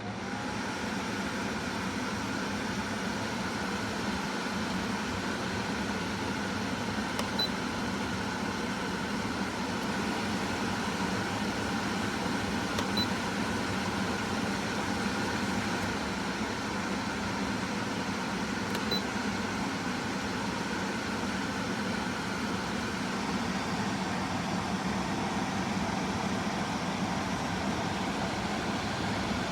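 KGOGO 7000 BTU portable air conditioner running steadily in cool mode, its fan quite noisy.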